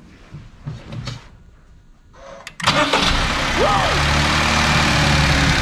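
Honda N-BOX three-cylinder engine started about two and a half seconds in: a brief crank as it catches, then a steady idle. The ignition coils and spark plugs have just been replaced to cure a rough idle.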